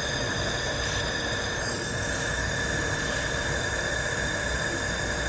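Steady machine hum and hiss with several constant high-pitched whining tones, from a handheld fiber laser welder system running.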